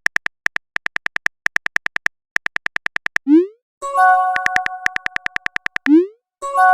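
Chat-app sound effects: a fast run of short electronic typing blips, about seven a second. About three seconds in a quick upward pop is followed by a chord-like chime, then more typing blips, another upward pop, and a fresh chime at the end.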